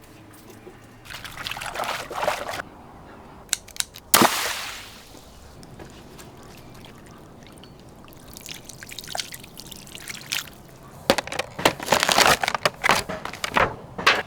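Water pouring, sloshing and splashing, with a sharp pop about four seconds in followed by a rush of water that fades, and a quick run of splashes near the end.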